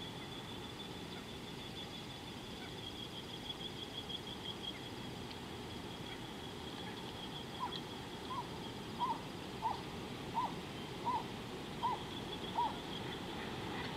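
A bird calling a series of about eight short hoot-like notes, evenly spaced and a little under a second apart, starting about halfway through. A steady high-pitched trill carries on beneath it.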